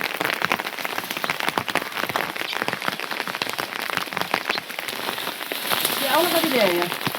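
Steady rain, dense drops pattering sharply onto a hard surface close by. Near the end comes a brief wavering call that rises and falls in pitch.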